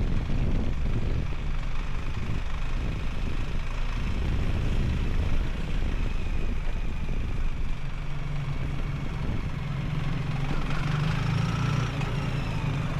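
A vehicle engine running steadily, with a low hum that grows stronger in the second half.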